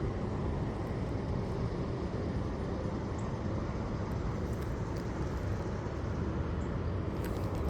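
Steady low outdoor rumble with no distinct events, with a few faint clicks near the end.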